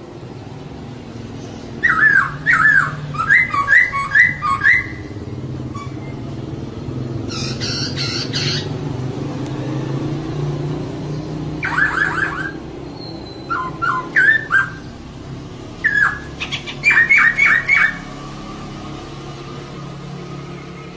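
A female laughingthrush (poksay) calling in bursts of quick, repeated short notes, each burst lasting a second or two, with a harsher chattering burst about eight seconds in. A steady low hum runs underneath.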